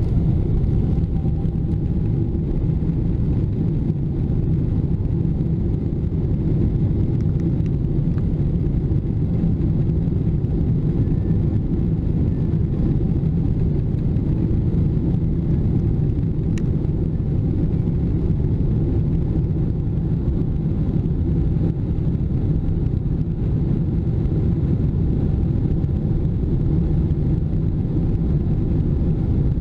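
Cabin noise of a Boeing 777-300ER with its GE90 engines at high thrust: a loud, steady, deep rumble with a faint steady whine above it, heard from inside the cabin.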